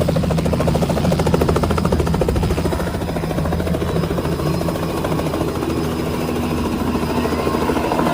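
Helicopter running close by: a fast, even rotor chop over a steady engine hum, dropping slightly in level about three seconds in.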